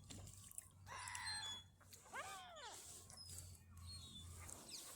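Faint bird calls at a feeding: a short harsh call about a second in, then a rising-then-falling cry a little after two seconds, with scattered high chirps throughout.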